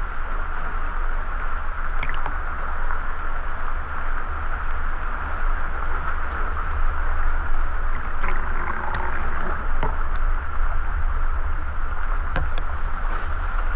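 Waterfall and river water rushing: a loud, steady roar, with a few faint short clicks over it.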